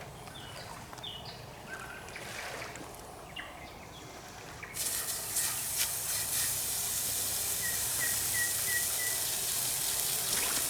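Birds chirping faintly, then about five seconds in, pieces of pork go onto a hot cooking surface and start sizzling steadily, a sharp hiss.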